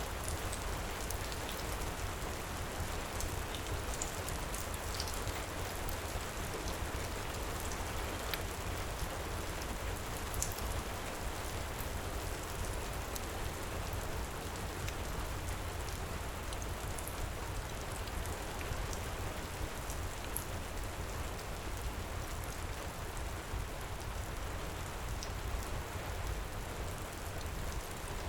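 Heavy rain falling steadily, with small crackles from a wood fire scattered through it.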